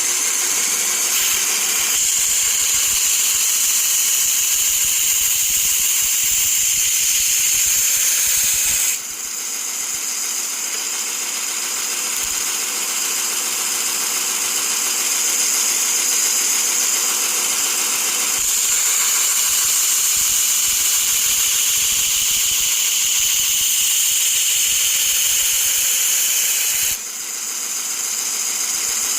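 Variable-speed 2-inch belt grinder running a 60-grit ceramic belt, grinding the edge bevel of a hedge trimmer blade to raise a burr: a steady high-pitched grinding hiss. It eases off for several seconds from about nine seconds in, and again near the end.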